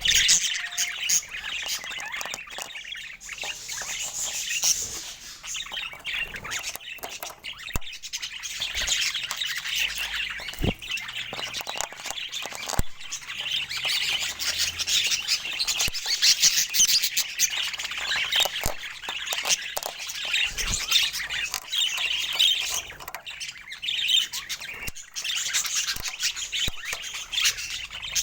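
Budgerigars chattering and warbling without a break, a flock of overlapping chirps and squawks, with scattered sharp clicks.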